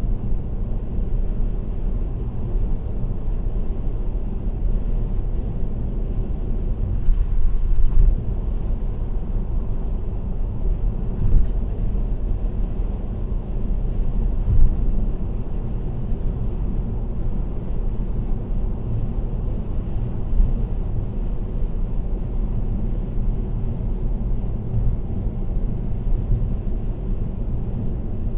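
Steady tyre and road noise of a car cruising on an expressway: a continuous low rumble with a few brief louder bumps.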